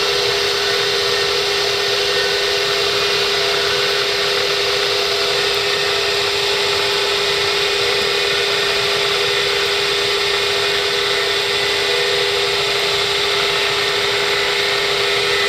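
Bridgeport 1 HP step-pulley vertical milling machine head running steadily at high spindle speed with the quill power feed engaged, a constant motor-and-belt hum with one strong steady tone.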